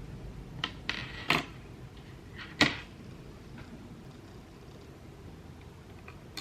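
A few sharp clicks and snaps from handling small plastic mechanical-keyboard parts, the loudest two about a second and a half apart, then nothing more.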